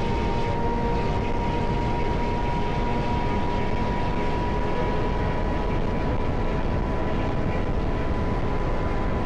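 AI-generated sound of a Honda CBR sportbike running at a steady speed: an even engine drone with wind rush and a steady whine, with no revving or gear changes.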